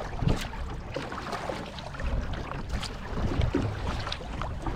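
Kayak paddle strokes dipping and splashing in the water at irregular moments, over a low rumble of wind on the microphone.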